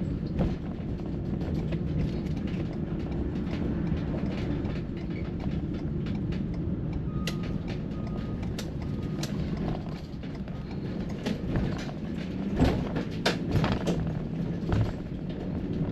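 Cargo van running, heard from inside the cab: a steady low rumble throughout. About halfway through come three short beeps, and near the end several clicks and knocks.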